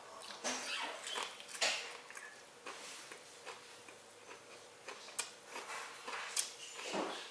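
A person chewing a mouthful of sandwich: irregular wet mouth clicks and smacks, with breaths through the nose.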